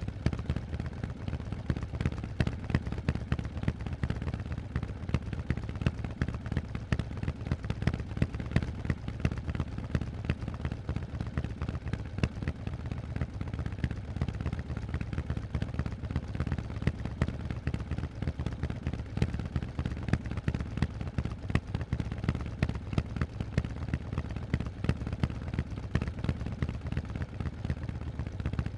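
Harley-Davidson Forty-Eight's air-cooled 1200 cc Evolution V-twin running through loud Vance & Hines exhausts: a rapid, even stream of deep exhaust pulses at a fairly steady engine speed.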